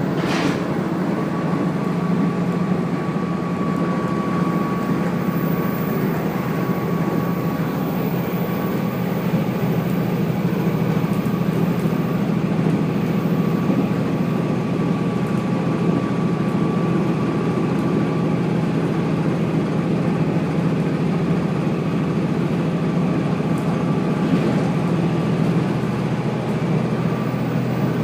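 Steady running noise of the Kazekko diesel railcar heard from on board: engine drone and wheels rolling on the rails, with a faint high whine through much of the stretch.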